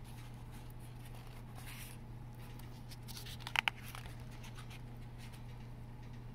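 Pages of a picture book being handled and turned: a faint paper rustle with two quick taps a little past the middle, over a steady low electrical hum.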